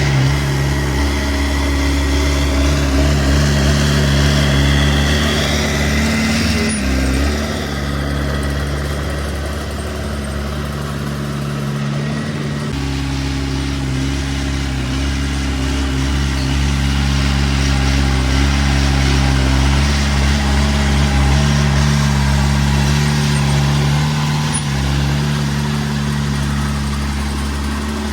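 Diesel engine of a small bulldozer running steadily, its pitch dipping briefly a few times as the load changes.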